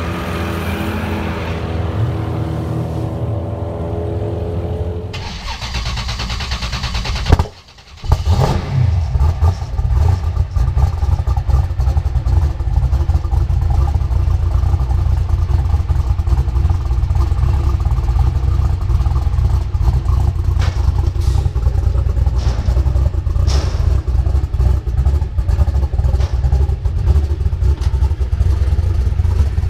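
Twin-turbo Ford Windsor V8 of a Fox-body Mustang running: its note falls over the first few seconds. It cuts out briefly about seven seconds in, then settles into a loud, steady low rumble with crackling.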